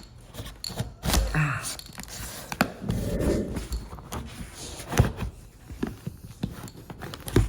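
Kitchen knife scraping and prying under a stuck HO scale model railroad track switch, with scattered sharp clicks and knocks and a stretch of scraping; the sharpest knock comes about five seconds in.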